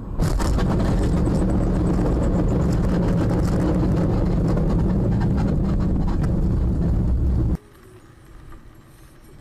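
Loud, steady vehicle noise: a low rumble with hiss that starts abruptly and cuts off suddenly about seven and a half seconds in.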